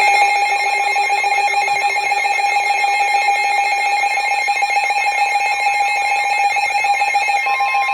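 Emergency weather alert attention signal: a loud, steady electronic alarm tone with a fast pulse and warbling tones layered over it, sounding before a National Weather Service warning. Near the end a second, higher steady tone joins in.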